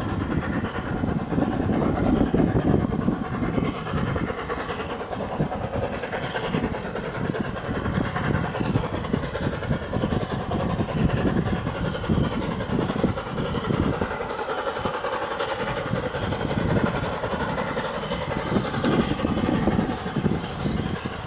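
A steam-hauled train running on the line, a continuous heavy noise that holds steady throughout.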